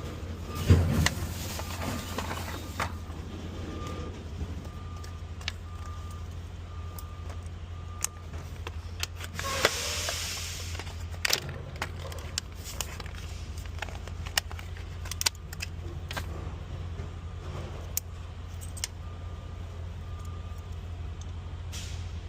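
Scattered clicks, taps and knocks of small metal parts being handled over a steady low hum, with a faint beep repeating about once a second and a short hiss about ten seconds in.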